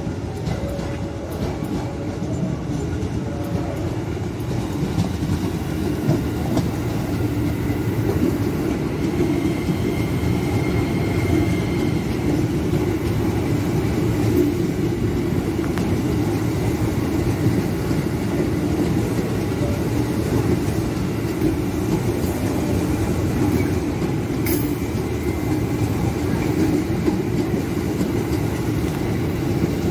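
Electric commuter train (KRL Commuter Line EMU) passing close by, its wheels running over the rails with a steady rumble and some clickety-clack, growing louder over the first few seconds and then holding.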